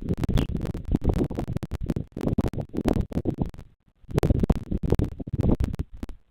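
Close scratching and crackling noise at the nest-cam microphone, in rough stretches with a brief gap about four seconds in.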